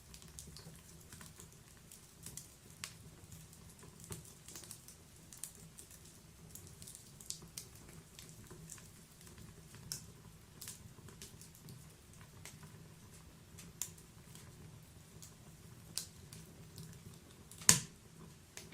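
Log-burning wood fire crackling: irregular small pops and snaps over a faint steady low rumble, with one loud pop near the end.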